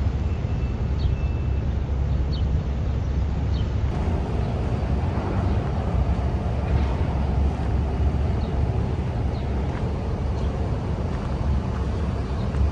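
Outdoor city ambience: a steady low rumble, with a few faint, short high chirps over it.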